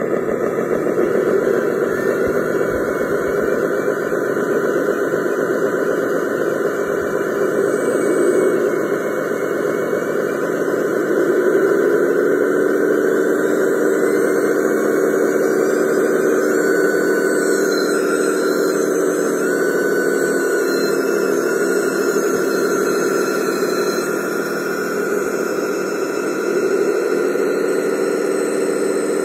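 Radio-controlled truck's electric drive motor and gears whining under a steady rushing noise; the whine rises in pitch about a third of the way in, holds for several seconds, fades, and rises again near the end.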